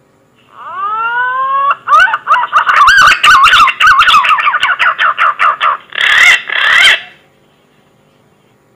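Green pigeon (punai) call played as a hunting lure. A rising whistled note comes first, then a fast run of warbling whistles, and it ends with two louder notes, over a steady background hiss.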